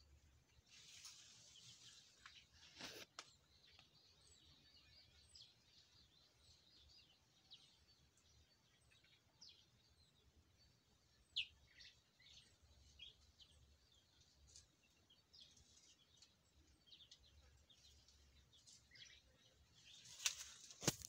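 Faint, scattered short bird chirps, with one sharper, louder chirp about halfway through. A dull knock about three seconds in and a few sharp clicks near the end stand out above them.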